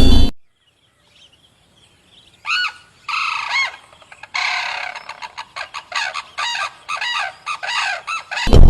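Bird calls with a fowl-like, clucking quality: a few separate arched calls, then a fast run of short calls. Electronic music cuts off at the start and comes back in loudly near the end.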